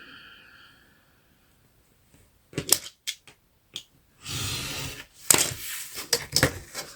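Scissors snipping through card: a few sharp clicks, a short rustle of the card, then a quick run of crisp snips in the second half.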